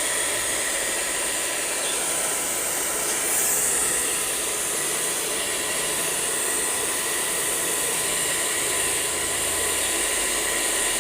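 Pet blower dryer running steadily, blowing air over a husky's coat after a bath, a constant airy rush with a faint steady whine.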